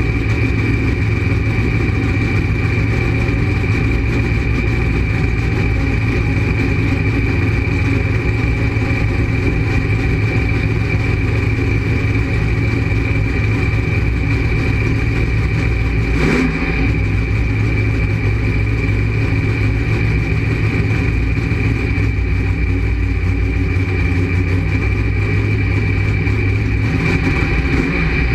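Drag race car's engine running at a steady idle, heard from inside the cockpit, with a steady high whine over it. There is one sharp click a little past halfway.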